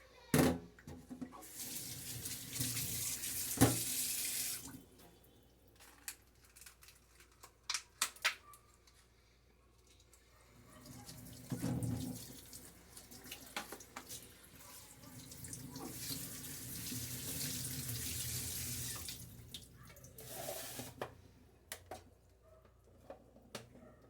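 Water tap running into a sink in two stretches of a few seconds each, with clicks and knocks of things being handled in between.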